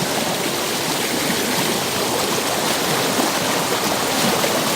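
A mountain creek rushing steadily over rocks, a continuous even splashing flow.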